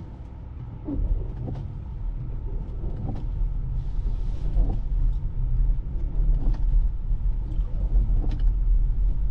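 Low, steady road and tyre rumble inside the cabin of a Tesla driving on a snowy road, growing louder about a second in. About four seconds in, washer fluid hisses briefly onto the windshield, with a few light knocks from the wipers, used to clear ice building up on them.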